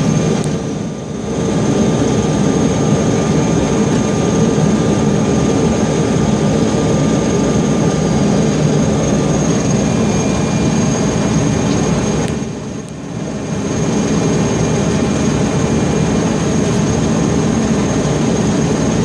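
Port engine of a Mallard aircraft running steadily after its start: a loud, even rumble with a thin high whine on top. The sound dips briefly twice, about a second in and again around two-thirds of the way through.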